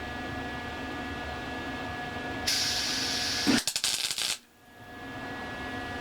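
A welding arc laying one short tack weld on a steel axle truss: a harsh hiss starts suddenly about two and a half seconds in, breaks into rapid crackles, and cuts off after about two seconds. A steady machine hum runs underneath.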